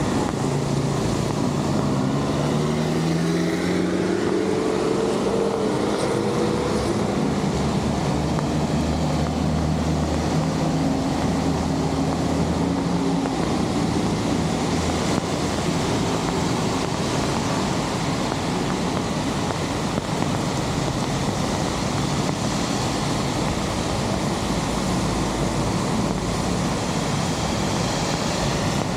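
Heavy rain falling onto flooded road and runoff, a steady hiss of rain on water. A vehicle engine is heard over it in the first half, rising in pitch, then holding steady, and fading out about 13 seconds in.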